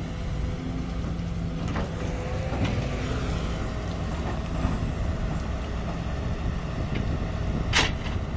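Sumitomo excavator's diesel engine running steadily with a low hum, with a few knocks and a sharp clack near the end.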